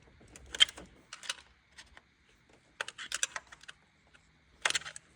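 Small metal parts and tools clicking and clattering as they are handled during timing chain work, in a few short clusters of sharp clicks.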